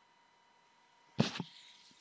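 A single short thump a little over a second in, followed by a brief faint hiss, over a faint steady high-pitched tone.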